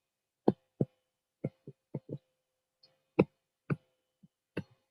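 About ten short, sharp taps at irregular intervals, typical of writing on a board during a lecture. The loudest come about half a second and three seconds in.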